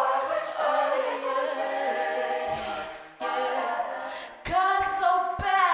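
A cappella vocal group singing sustained chords in close harmony, with no instruments. A few short low thumps come about four and a half to five and a half seconds in.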